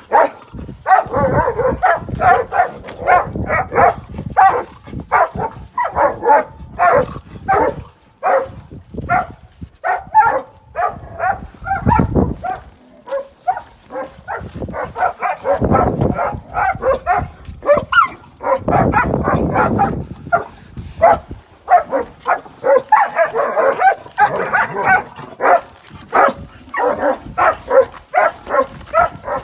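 A German shepherd and a street dog fighting: rapid, nearly continuous barking with yelps, in dense volleys, with a few heavier, lower stretches of scuffling or growling around the middle.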